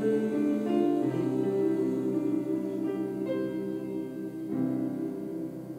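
Instrumental music closing out a hymn: held chords on a keyboard instrument, changing a few times and growing quieter toward the end.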